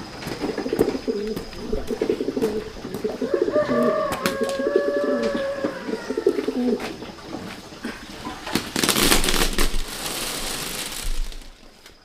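A bird cooing in repeated low calls for the first several seconds, followed by a loud burst of noise lasting about two seconds from around nine seconds in.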